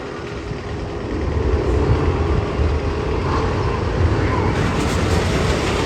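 Roller coaster train rumbling along steel track, growing louder about a second in and holding steady, with a rising hiss near the end.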